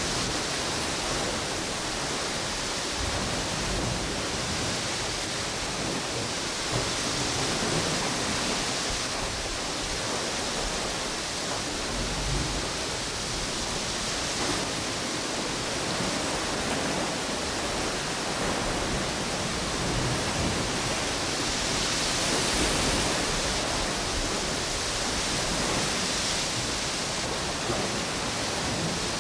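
Beach in strong wind: a steady rushing of wind and surf, swelling and easing slowly, with brief low rumbles.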